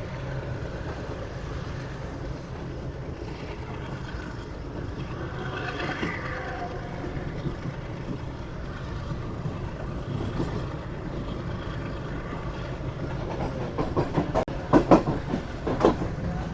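Passenger train running on the rails, heard from on board: a steady low rumble, with a quick run of loud wheel clacks over rail joints near the end.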